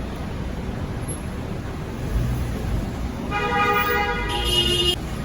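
Street traffic rumbling, with a car horn giving one long honk about three seconds in that lasts a second and a half.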